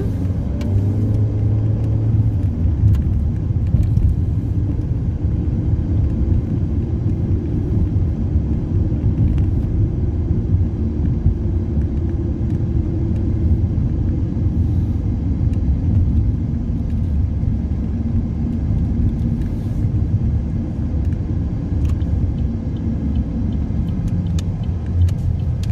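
Steady low road rumble inside a moving car's cabin: engine and tyre noise while driving at an even speed.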